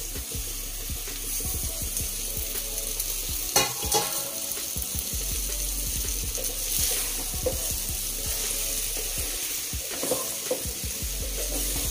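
Broccoli florets and potato pieces sizzling in a pan of hot masala paste as a spatula stirs them, scraping and knocking against the pan, with a louder knock about four seconds in.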